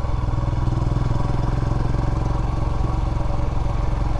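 Royal Enfield Himalayan motorcycle engine running steadily under way, heard through a damaged aftermarket exhaust that has lost a sleeve.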